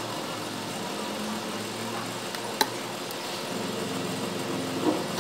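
Volkswagen Polo engine idling with a steady hum, and a single sharp click about two and a half seconds in.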